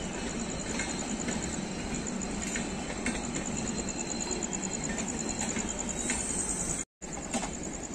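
Indian Railways express passenger train running through at speed and pulling away: a steady rolling rumble with scattered clicks of wheels over rail joints. The sound cuts out for a split second about seven seconds in.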